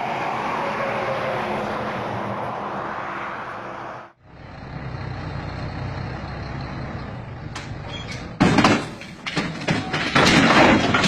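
Heavy truck engine running, then, after an abrupt cut, a lower engine rumble. Loud crashing bursts come in the last few seconds.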